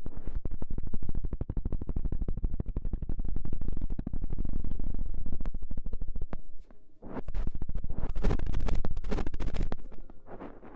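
Rapid, even fluttering pulses close on the microphone, many a second and heavy in the bass, in two stretches of several seconds with a short break between them; a close-mic ASMR trigger.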